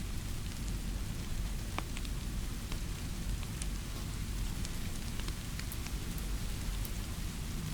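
Steady rainfall, an even hiss over a deep low rumble, with scattered small sharp ticks of drops throughout.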